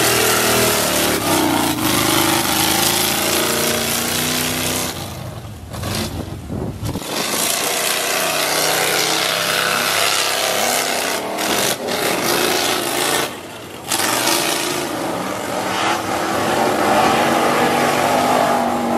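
Mud-racing truck engine revving hard, its pitch climbing and falling, with the sound dropping away briefly twice.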